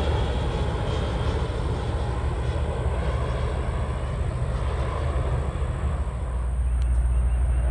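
Jet airliner arriving to land, its engines giving a continuous rumbling roar that swells in the low end over the last couple of seconds.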